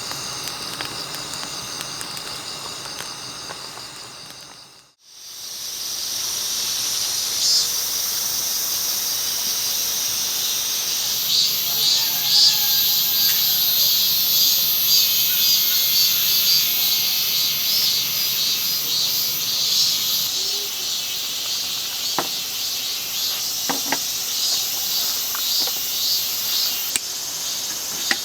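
Background music fading out, then a steady chorus of crickets and other autumn insects chirping in high, pulsing trills, with a couple of light clicks later on.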